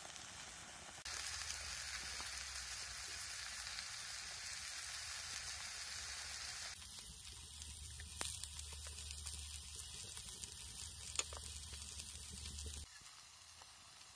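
Meat and mushrooms sizzling in a frying pan over a wood fire, a steady frying hiss, with a few light clicks in the second half.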